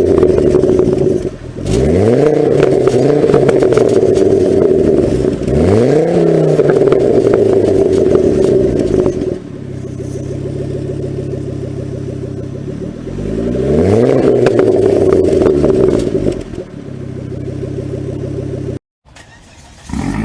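Inline car engine revved repeatedly: three times the pitch climbs quickly and holds at high revs for a few seconds, dropping back to a lower steady speed in between. The sound cuts out briefly near the end.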